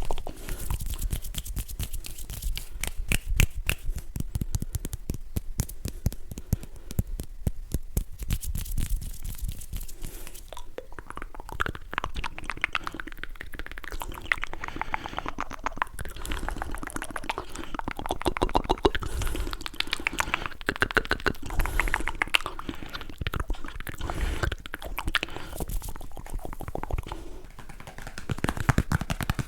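Close-miked ASMR triggers: a fast, dense run of clicks and taps, turning into a rougher, rustling texture from about ten seconds in.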